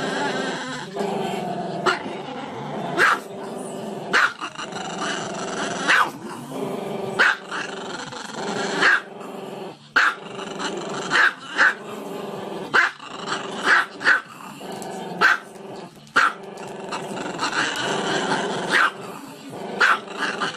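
Small black-and-tan dog howling with its head raised: a sustained, wavering cry broken by sharp yips about once a second.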